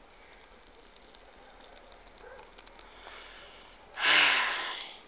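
Wood campfire crackling faintly with small scattered pops, then about four seconds in a loud breathy hissing rush that lasts about a second and fades.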